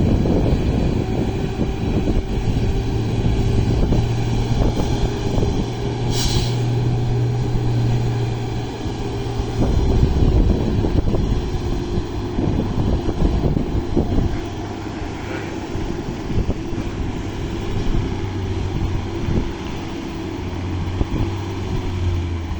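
Heavy diesel engine of a dump truck running steadily at a dump truck loading with fill soil, a low even hum throughout. A short hiss about six seconds in.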